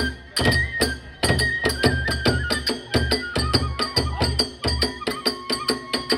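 Kagura hayashi music at a fast, driving tempo: a bamboo flute holds a melody that steps down in pitch about halfway through, over rapid, evenly spaced drum beats and clashing small hand cymbals.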